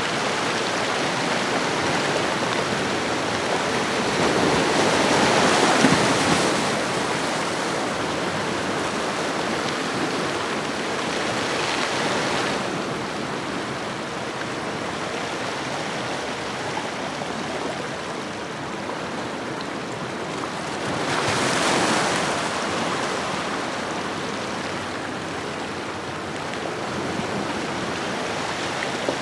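Ocean waves washing onto a shoreline: a steady hiss of surf with two louder breaking swells, one about six seconds in and another near twenty-two seconds.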